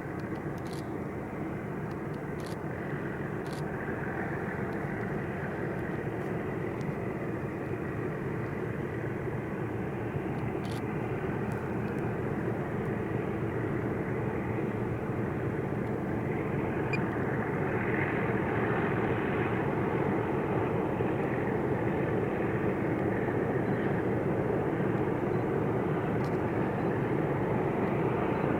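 Diesel locomotive engine running with a steady rumble, growing gradually louder as the train approaches.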